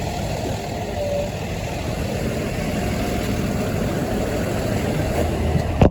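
School bus engine running steadily with its engine cooling fan loud, a constant rushing drone that cuts off suddenly at the end.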